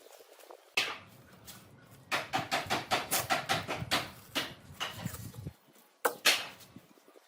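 Workshop knocks on wood: a single sharp knock, then a quick run of taps at about five a second, then a few more scattered knocks and two hard ones near the end.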